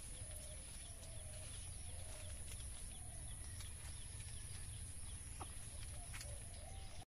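A bird calling over and over in short arched notes, about once a second, over a steady high-pitched hiss, with faint rustling and clicks as plastic wrap is tied around a guava branch.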